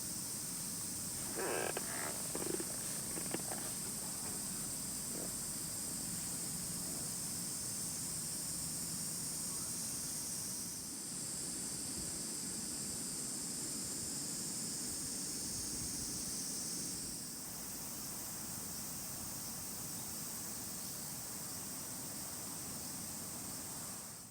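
Steady high-pitched chorus of insects, with a few short clatters about two to three seconds in.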